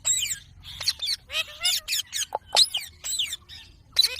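Indian ringneck parrot calling in a quick run of short squawks and chirps, each a brief bending note with a few sharp clicks between.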